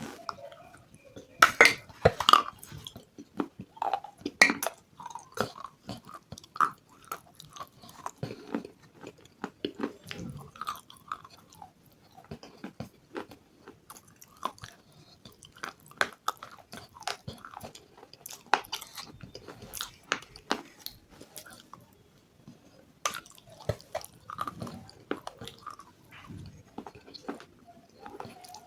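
A person chewing close to the microphone, with irregular crisp crunches and bites; the loudest crunches come about two seconds in.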